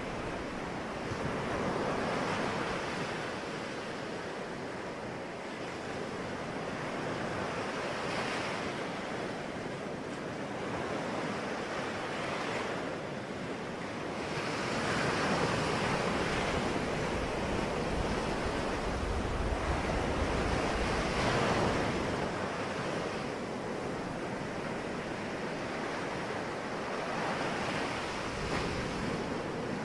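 Ocean waves breaking and washing ashore in slow swells every few seconds, with low rumbling wind noise on the microphone at times.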